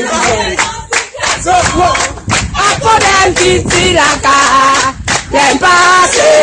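A group of voices singing together, accompanied by hand clapping.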